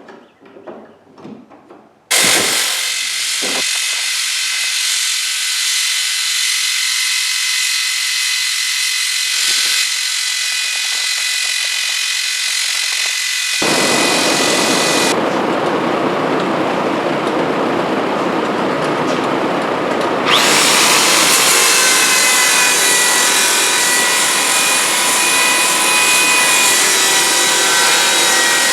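A power tool running steadily on wood, a steady whine over a rushing noise, with sudden shifts in tone twice in the second half as if separate takes were joined.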